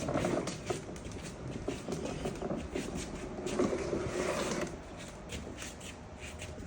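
Small toy Jeep driving, with a busy run of quick clicks and rattles.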